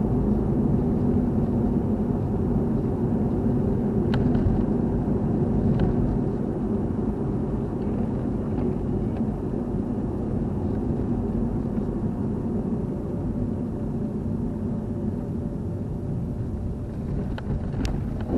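Car driving, with a steady rumble of engine and tyres that grows gradually quieter, and a few faint clicks.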